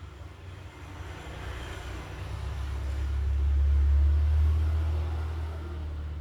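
Low rumble of a passing vehicle, swelling to its loudest about four seconds in and then fading.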